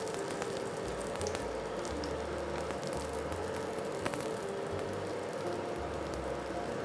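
Keema-stuffed parotta frying in ghee on a flat tawa: a steady sizzle, with a few light clicks.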